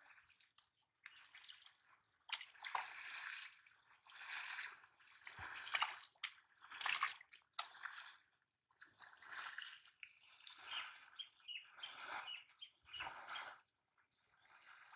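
Shallow water splashing and sloshing in irregular bursts, about one a second.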